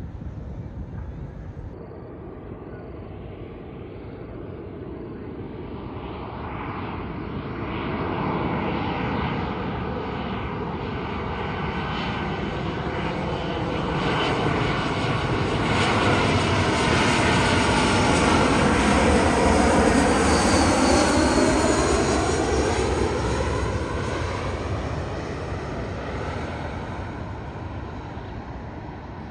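Jet airliner passing close by on its landing approach. The engine noise builds, peaks about two-thirds of the way through and then fades, with its whine sliding down in pitch as the aircraft goes past.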